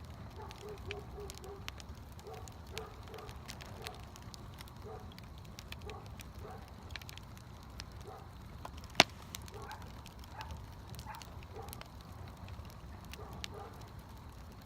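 Campfire burning, crackling with scattered small snaps and one loud sharp pop about nine seconds in.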